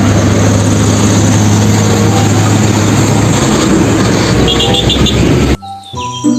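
Loud, steady engine-like rumble with a low hum, which cuts off suddenly about five and a half seconds in; short tones follow near the end.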